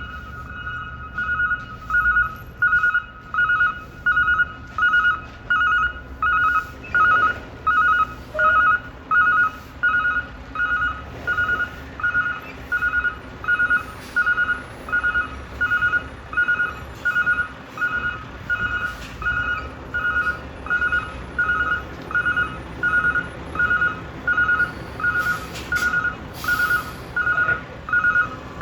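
Backup alarm on a roll-off dumpster truck beeping steadily, about three beeps every two seconds, starting about two seconds in, over the low sound of the truck's engine running.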